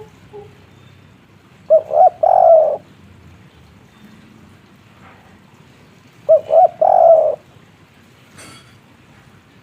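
Spotted dove (tekukur) cooing its three-part 'kuk 3' phrase twice, about four and a half seconds apart: each time two short coos and then a longer one.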